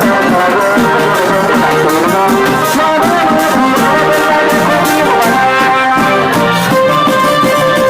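Thai village brass band (trae wong) playing: brass horns carry a melody of held notes over percussion keeping a steady beat.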